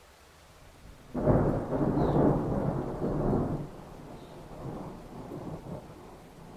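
A thunderclap: a sudden loud crash about a second in, heavy for a couple of seconds, then rolling rumbles that fade away.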